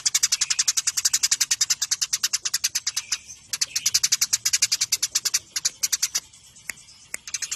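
Eurasian tree sparrows chirping in a fast, unbroken run of sharp chirps, about ten a second: the excited chatter of sparrows squabbling. The run breaks off about six seconds in, and scattered chirps follow near the end.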